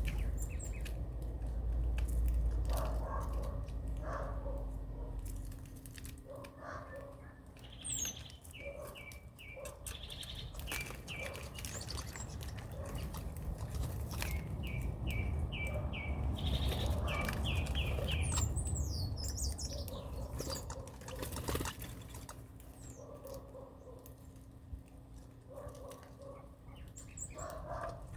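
Birds chirping: two runs of about five quick, evenly spaced chirps, with thin high whistles, over a low rumble and frequent clicks.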